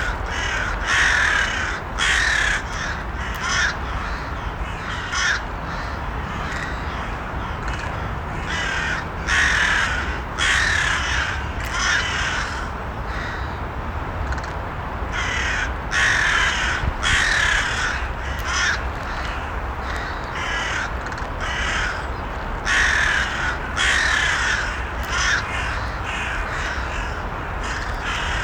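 Crows cawing again and again, in short runs of harsh calls every few seconds, over a steady low background noise.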